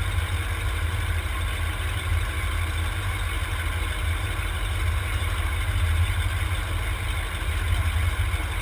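Demolition derby cars' engines running, a steady low rumble with a noisy wash over it.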